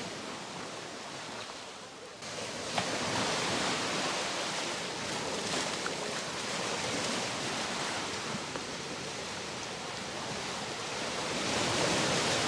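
Surf washing onto a sandy beach: a steady rush of breaking waves that swells louder near the end.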